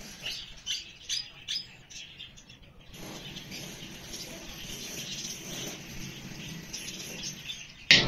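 Small birds chirping: short, high calls, several in the first three seconds and fainter after that.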